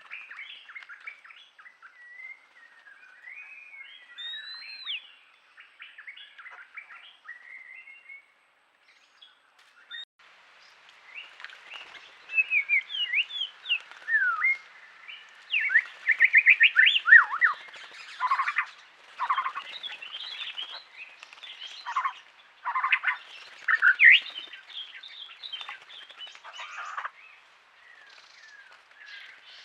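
Wild birds chirping and whistling: scattered faint calls at first, then louder, busier chirps and quick whistled sweeps from about twelve seconds in.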